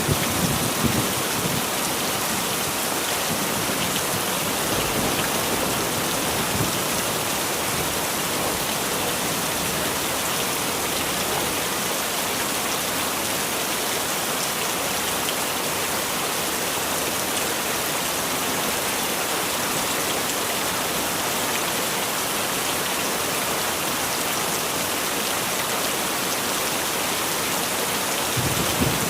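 Heavy rain falling steadily, with low rumbles of thunder dying away about a second in and starting again near the end.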